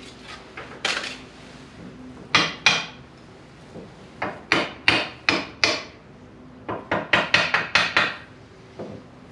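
A small ball-peen hammer tapping on steel, in short bursts of quick, ringing blows: the wear plate and pin on a baler hitch being knocked into line.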